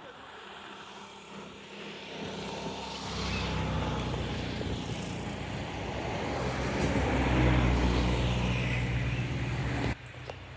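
A motor vehicle's engine running and growing steadily louder as it comes closer, loudest a few seconds before the end, then cut off abruptly.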